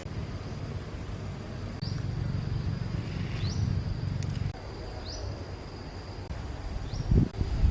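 Rural outdoor ambience: a steady high insect drone with short rising chirps about every second and a half, over a low wind-like rumble. Two loud thumps near the end.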